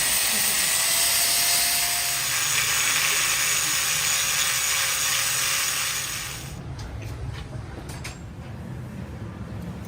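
Workshop machine noise: a loud, steady hiss that cuts off suddenly about six and a half seconds in, leaving a low hum with a few light clicks.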